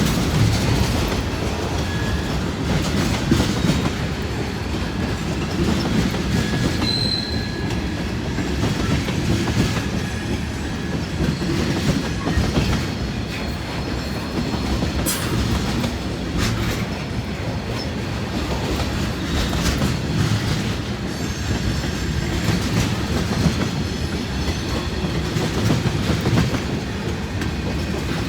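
Freight cars of a long mixed manifest train rolling past at steady speed, wheels clacking over rail joints with a steady rumble and a few faint brief wheel squeals.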